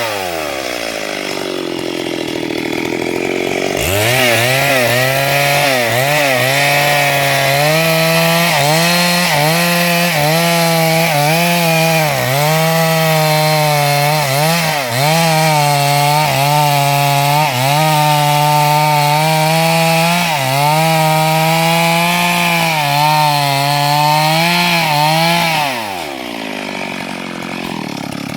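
Chainsaw cutting a log: the engine revs up about four seconds in and runs at high throttle, its pitch dipping again and again as the chain bogs into the wood. Near the end the throttle is let off and the pitch falls away.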